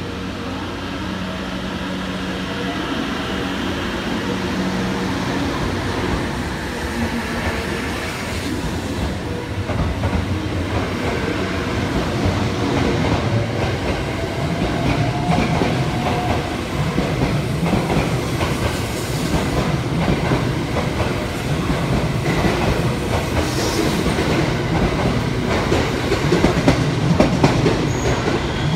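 Thunderbird limited express electric train pulling out of the platform. A steady hum while it stands gives way, as the cars roll past, to wheels clattering over the rail joints, growing louder toward the end.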